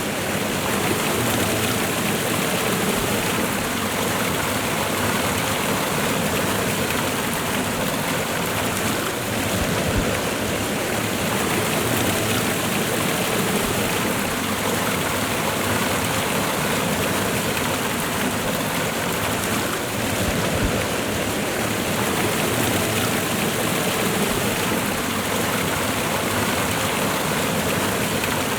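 Waterfall and running river water rushing steadily, an even, unbroken wash of noise.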